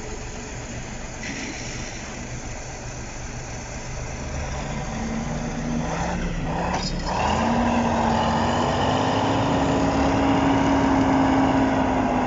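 Heavy diesel tractor engine revving up and running hard under load, its pitch climbing about halfway through and then held high, as it hauls a tractor stuck in deep clay mud.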